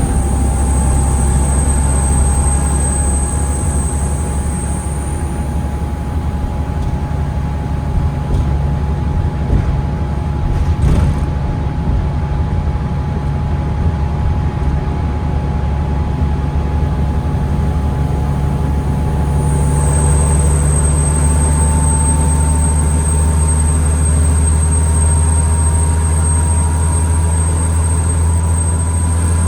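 2009 New Flyer D40LFR diesel bus drivetrain heard from inside the bus: a steady low engine drone with a mid-pitched whine above it. The whine slowly rises in pitch from about two-thirds of the way in. A thin high-pitched whine fades out about five seconds in and comes back about twenty seconds in.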